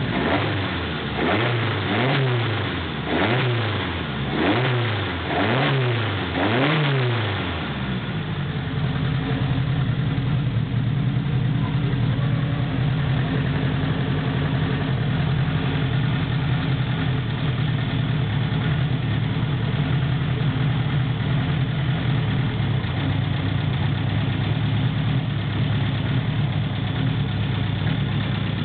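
Renault 8 prototype's Renault 5 Alpine four-cylinder engine being blipped about six times in quick succession, each rev rising and falling. About eight seconds in it settles to a steady idle.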